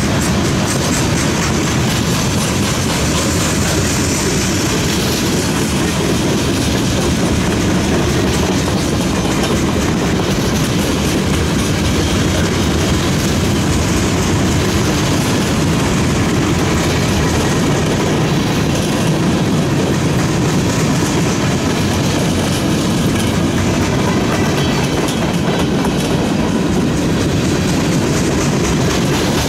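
A freight train's cars rolling past close by: a steady, loud rumble of steel wheels on rail with clickety-clack clicking as the wheels cross rail joints.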